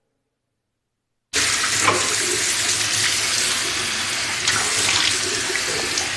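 About a second of silence, then a steady hissing noise starts abruptly and runs on, with a few faint clicks in it.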